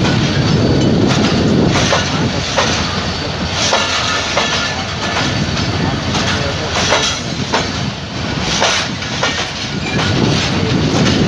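Departing passenger train's coaches rolling by, wheels clacking over rail joints at irregular intervals.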